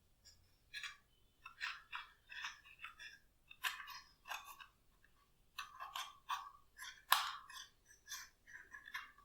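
Glossy slime being squished and folded by hand, giving irregular short crackly clicks and pops, one or two a second.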